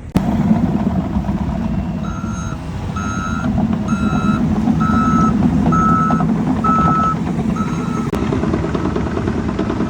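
Heavy truck's reversing alarm beeping seven times, about one beep a second, starting about two seconds in, over the steady running of a diesel truck engine. A sharp click at the start and another about eight seconds in.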